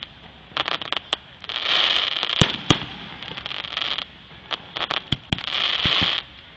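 Fireworks display: a string of sharp bangs from shells bursting, with two longer stretches of dense crackling, one starting about a second and a half in and one near the end.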